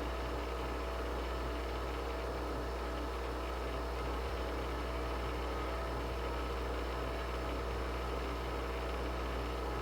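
Nespresso Vertuo Next coffee machine running through a brew cycle: a steady mechanical hum with a low drone, from the capsule being spun.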